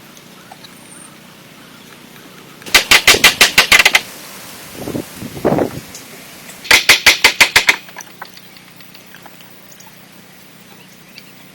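Two bursts of rapid sharp knocking, about eight strikes a second, each lasting just over a second, with a short lower sound between them.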